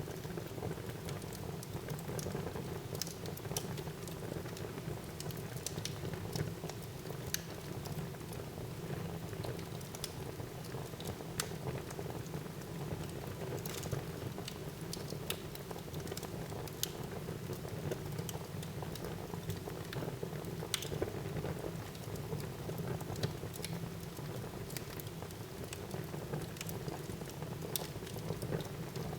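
Wood fire burning in a fireplace: a steady low rush of flame with frequent sharp crackles and pops scattered irregularly throughout.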